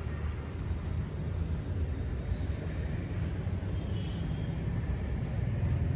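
Steady low rumble of road traffic, slowly growing louder.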